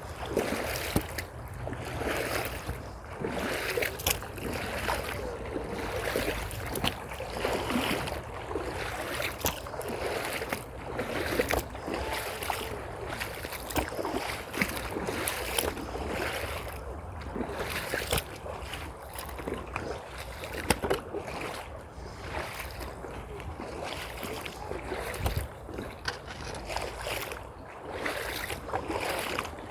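Creek water running and splashing, with irregular knocks and crunches of footsteps along the bank.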